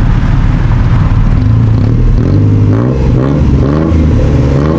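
Motor vehicle engine running amid loud, steady low rumble of road noise, its pitch rising and falling from about two seconds in.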